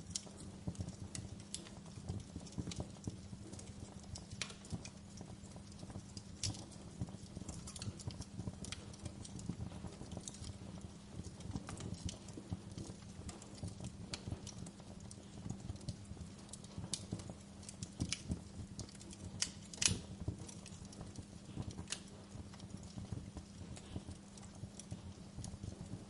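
Wood fire in a fireplace burning with constant soft crackling, with sharp pops now and then, the loudest about twenty seconds in.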